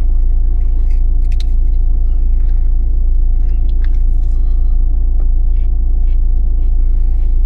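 Vehicle engine idling, a steady low rumble heard from inside the cab, with a few faint clicks and rustles over it.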